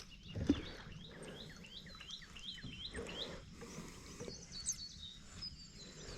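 A small bird chirping repeatedly, a steady run of short, quick hooked notes about twice a second, with a few soft low knocks underneath.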